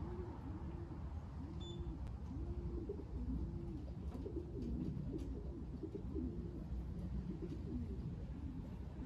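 Racing pigeons cooing at the loft: a continuous run of short, arching coos one after another.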